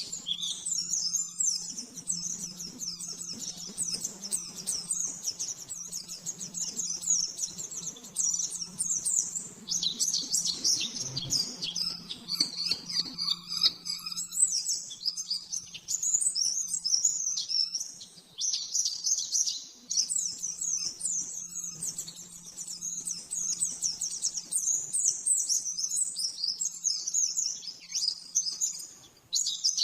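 White-eye (pleci) singing a fast, continuous run of high chirping trills, the rapid 'nembak' song used as a tutor recording for training caged songbirds, pausing briefly about a third of the way through and again around two-thirds. A faint steady hum lies underneath.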